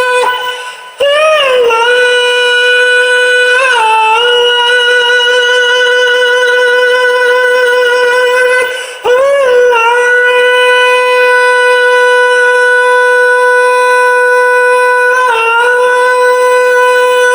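A single voice holding long, steady high notes without words, each scooping up slightly at its start. It breaks off briefly twice, near the start and about halfway through.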